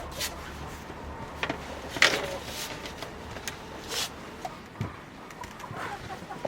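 A few scattered knocks and clicks, the loudest about two seconds in.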